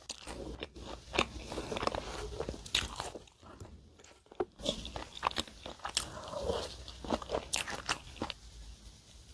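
Close-miked chewing of crusty salt bread filled with strawberry cream: sharp crackly crunches of the crust and wet mouth sounds. The sounds stop about a second before the end.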